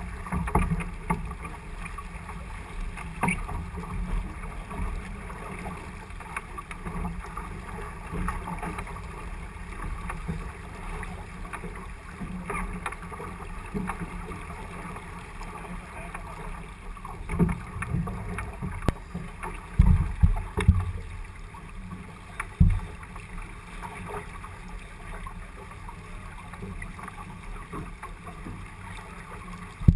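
Wind and water noise aboard a J80 sailboat under sail: a steady rushing, with wind buffeting the microphone in loud low gusts, strongest in a cluster about two-thirds of the way through.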